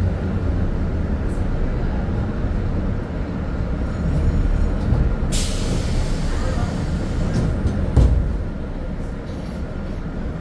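Belo Horizonte Metro Series 900 electric multiple unit running on the line: a steady low rumble of wheels on rail. A sudden hiss starts about five seconds in and fades within a second or so. A single sharp knock comes about eight seconds in, after which the rumble eases a little.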